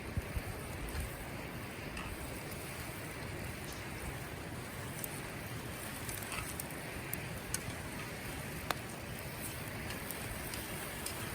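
Wood campfire crackling: scattered sharp pops and snaps over a steady hiss.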